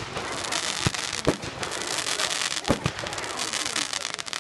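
Fireworks going off: a continuous crackling and fizzing, with several sharp bangs scattered through it.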